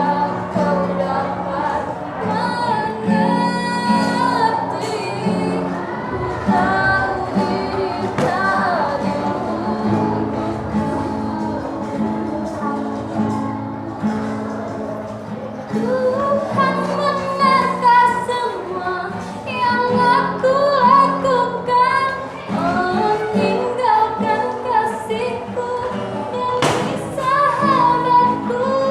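Female voices singing a melodic song over steady musical accompaniment.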